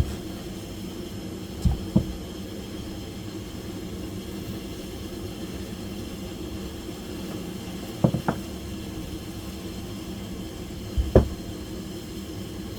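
Three pairs of short knocks, about three seconds apart, over a steady low hum.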